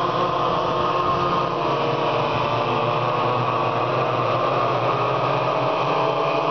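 Several small engines running at high revs together, their overlapping whines rising and falling slightly as the machines race.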